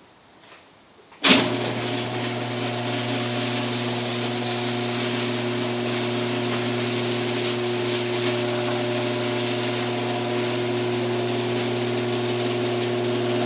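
Garage door opener starting with a sharp clunk about a second in, then its motor running with a steady hum for about twelve seconds as it drives the door, stopping near the end.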